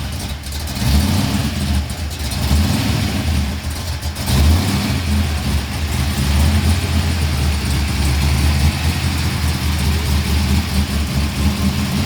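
Car engine running loudly with a deep rumble, uneven with small throttle blips over the first few seconds, then running steadily.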